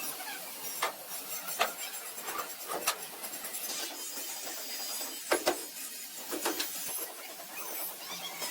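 About six irregular sharp knocks or taps, most likely tools working on the car's metal, over a steady high hiss.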